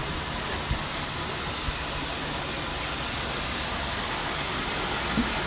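Steady hiss of steam escaping from a steam locomotive standing at rest, with a couple of faint knocks in the first two seconds.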